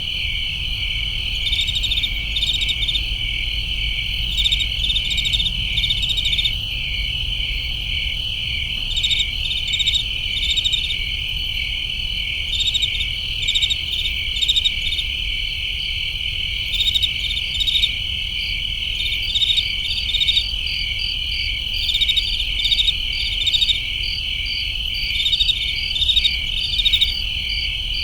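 Crickets chirping in chorus: a steady high trill with clusters of quick pulsed chirps repeating over it, and a faint low rumble underneath.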